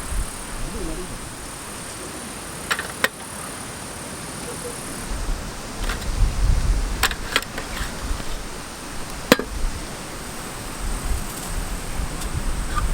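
Low rumble of wind buffeting the microphone outdoors, with a few single sharp clicks about 3, 7 and 9 seconds in.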